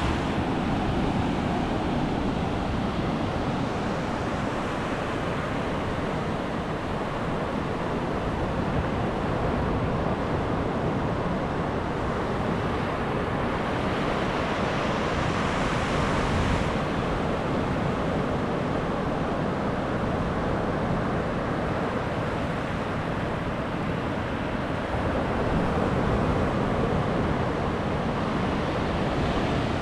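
Atlantic surf breaking on a sandy beach: a continuous rush of waves that swells and eases a little.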